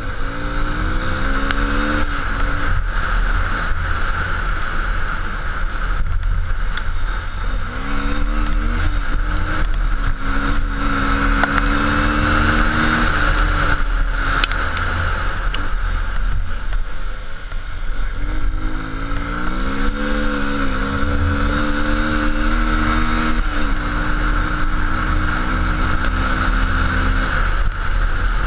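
A car being driven, its engine note climbing and then breaking off as gears change, several times over, above a steady heavy rumble of road and wind noise.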